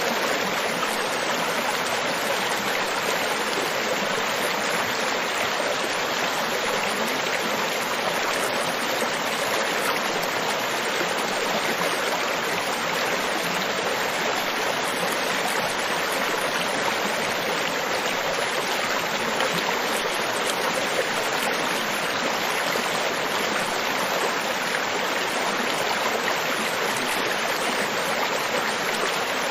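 Tropical beach ambience: a steady, unbroken rush of water, with no separate wave surges standing out.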